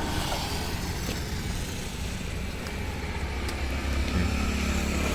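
Motor vehicle engine running steadily by a road, a low hum with traffic noise around it, swelling slightly about four seconds in.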